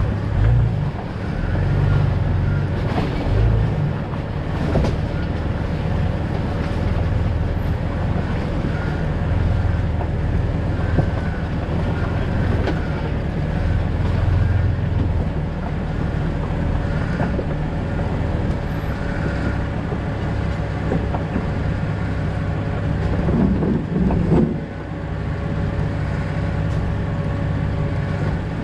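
A 2000 Jeep Cherokee XJ driving on a backcountry road: steady engine and road rumble with irregular knocks and rattles.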